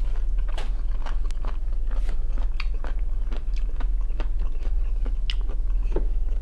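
A man chewing food, with irregular mouth clicks a few times a second, over a steady low hum.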